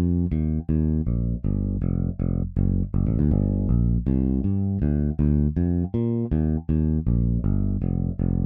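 Toontrack EZBass virtual electric bass playing a modern funk pattern from a MIDI pack: a syncopated groove of short, plucked, staccato notes with brief gaps between them.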